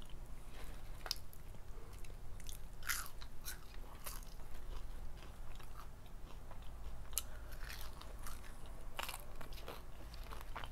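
Close-up chewing of crispy fried chicken: irregular crunches and crackles of the fried batter, some sharper bites standing out now and then.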